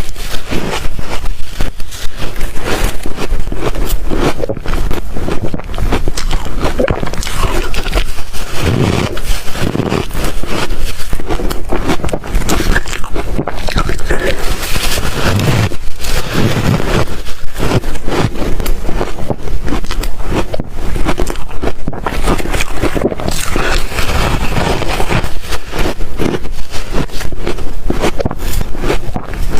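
Ice being bitten, crunched and chewed: a continuous run of crisp cracks and crunches with no pauses.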